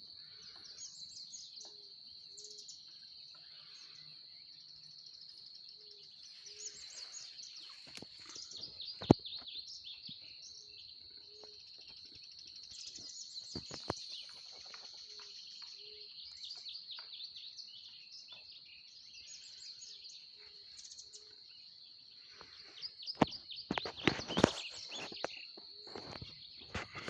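Outdoor ambience: a steady high-pitched insect drone, with birds chirping over it and a soft low two-note call repeating every four seconds or so. A few sharp knocks come about nine seconds in and again near the end.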